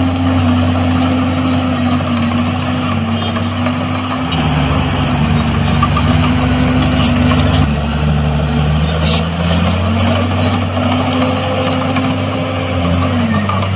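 Heavy diesel engine of earthmoving machinery running steadily, its engine speed dipping and recovering several times. A second, deeper engine tone joins from about four to eight seconds in, and the engine note drops sharply and comes back up near the end.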